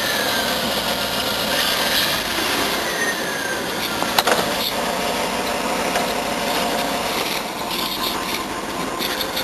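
Dodge Ram pickup's 5.9-litre V8 running under way, a steady noisy rush with one sharp click about four seconds in.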